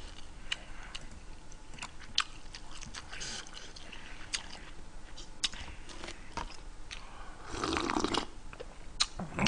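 A man chewing a mouthful of food, with scattered small crunchy, moist clicks. About eight seconds in there is a short sip from a small paper cup.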